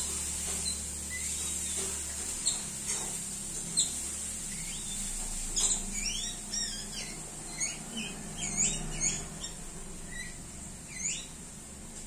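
Small birds chirping: scattered short, high chirps, with a quick run of them starting about five and a half seconds in, as an adult bird visits a fledgling.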